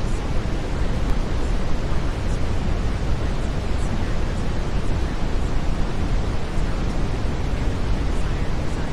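Steady brown noise: an even, unbroken rushing hiss weighted heavily toward the low end.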